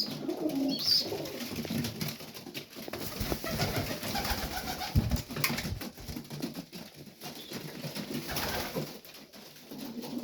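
Domestic pigeons cooing in a loft, low wavering calls coming again and again, with scattered light clicks and scuffs and two short high squeaks in the first second.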